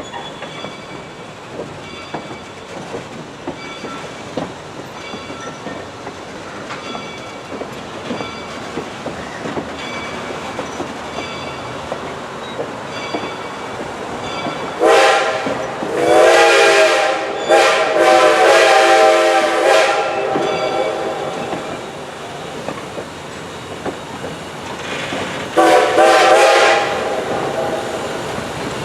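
Train rolling by with steady wheel rumble and clicking rail joints, while the locomotive horn sounds a series of blasts about halfway through: a short one, then two long ones with a brief one between. One more short blast follows near the end.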